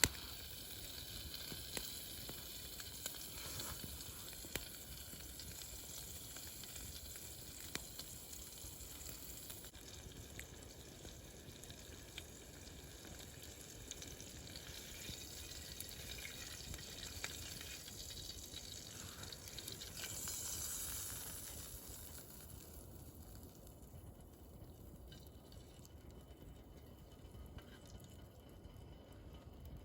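Wood fire burning in a fire pit, a soft steady hiss and sizzle with scattered sharp crackles; the hiss swells briefly about two-thirds of the way through, then settles quieter.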